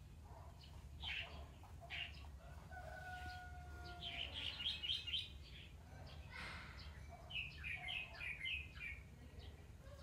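Birds chirping: quick runs of short notes about four seconds in and again about seven seconds in, and one longer held call about three seconds in, over a low steady hum.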